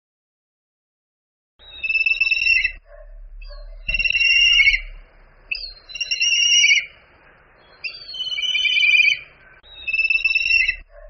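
A bird of prey calling: five high, pitched calls, each about a second long, coming roughly every two seconds.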